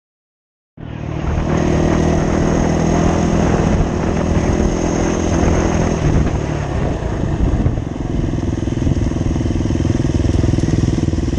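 Off-road motorcycle engine running under way. It cuts in suddenly about a second in, holds a steady note, and its pitch wavers briefly around the middle.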